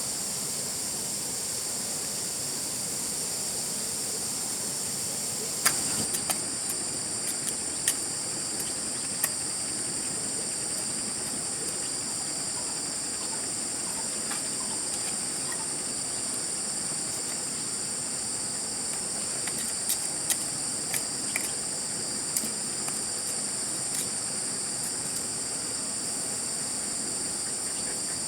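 Steady, high-pitched chorus of insects calling without pause. Scattered sharp clicks and knocks come in from about six seconds in and again later.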